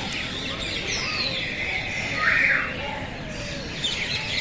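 Several caged birds calling at once: chirps and twitters, a falling whistled note about a second in, and a loud harsh squawk about halfway through.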